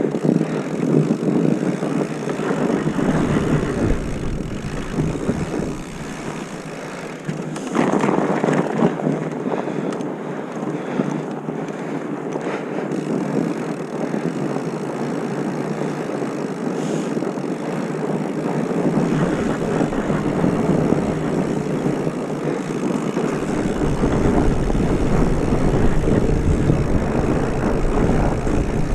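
Wind rushing over the microphone while riding at speed, a steady noisy rumble. It deepens about three seconds in and again near the end.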